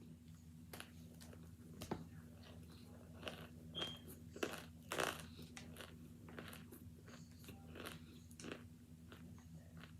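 Hard chunks of boiled and frozen cornstarch being bitten and chewed: irregular crunches, the loudest about four and a half to five seconds in, over a low steady hum.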